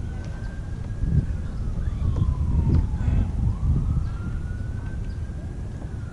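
Faint wailing emergency siren, one tone slowly rising and falling about every four to five seconds, over a low steady rumble.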